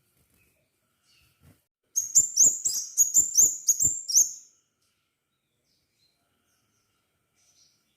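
Crimson sunbird singing: a rapid run of about ten sharp, high chirps, roughly four a second, lasting about two and a half seconds.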